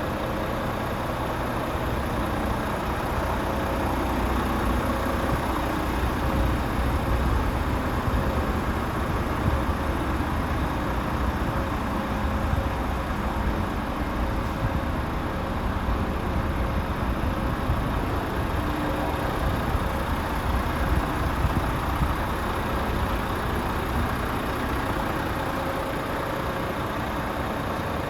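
Renault 11-litre Euro 6 diesel engine of a tractor unit idling steadily.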